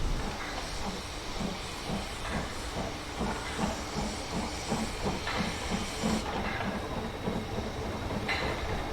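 Narrow-gauge steam locomotive working, hissing steam with a steady rhythmic beat about three times a second.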